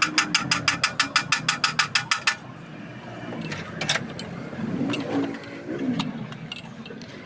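Ratchet wrench clicking rapidly and evenly, about eight clicks a second, stopping a little over two seconds in. A few separate tool knocks and clicks follow.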